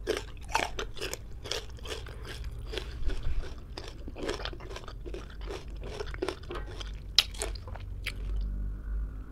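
Crunchy chewing of raw green ambarella fruit, about three crisp crunches a second. About eight seconds in the crunching stops and gives way to softer swallowing from a drink bottle.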